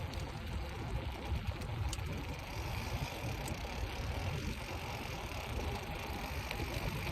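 Steady low wind rumble buffeting a phone's microphone on a moving bicycle, with the hiss of tyres rolling on the road.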